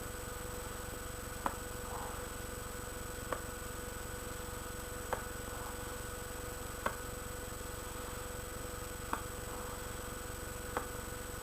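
Sharp single clicks about every two seconds over a steady electrical hum.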